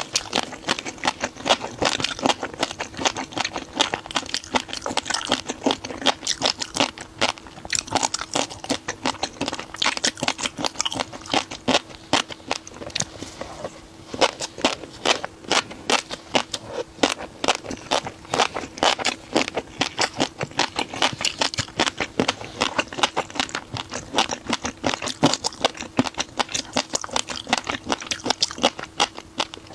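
Close-miked chewing of crunchy seafood, a rapid, continuous run of crisp crunches with a short lull about halfway, over a faint steady hum.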